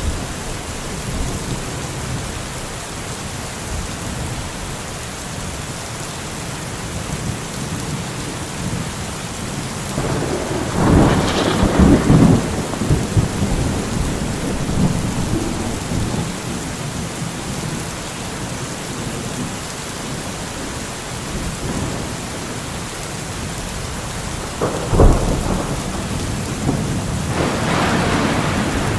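Steady rain with thunder: a loud rumble about a third of the way in, a sharp crack later on, and another rumble building near the end.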